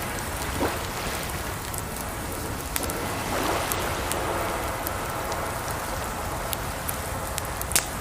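Campfire crackling, with scattered sharp pops over a steady rush of running water.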